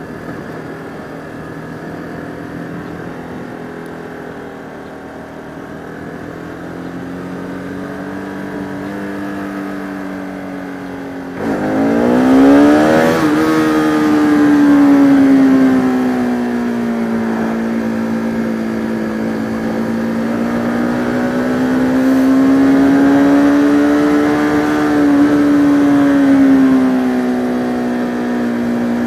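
Motorcycle engine running under way, heard from the rider's helmet. About a third of the way in the throttle is opened hard and the revs climb quickly and get louder, then hold high with slow gentle rises and dips.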